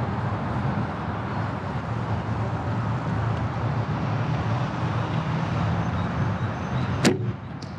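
A PSE Brute ATK compound bow being shot: one sharp snap about seven seconds in, followed about half a second later by a fainter knock. A steady rumble of background noise runs underneath.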